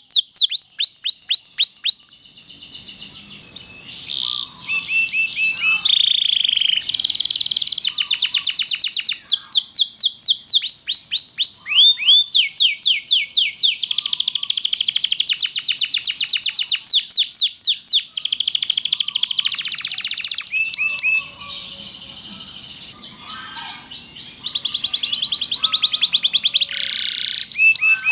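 Domestic canary singing a long song of fast trills: runs of rapid, repeated, quickly falling high notes, broken twice by short quieter, softer phrases.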